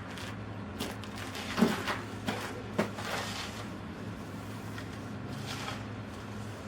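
A few short knocks and clunks, the loudest about one and a half seconds in, over a steady low hum.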